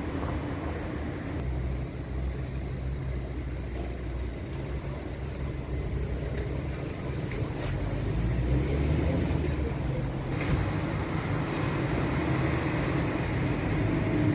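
Passenger train running on its rails: a steady low rumble with a few sharp clicks, getting louder about halfway through.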